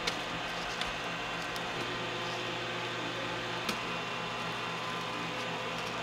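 Steady hum of running kitchen machinery, with a few faint clicks and taps.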